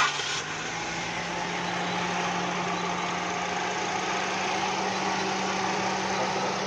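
Suzuki Swift's fuel-injected petrol engine idling steadily just after being started, following a brief loud rush at the very start. It is the engine of a car brought in for a misfire ('missing') and backfiring.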